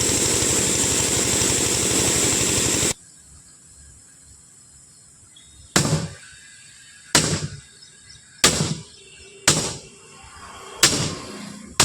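An engine runs steadily and cuts off abruptly about three seconds in. Then a hammer strikes a steel truck wheel rim five times, a little over a second apart, each blow sharp with a brief metallic ring.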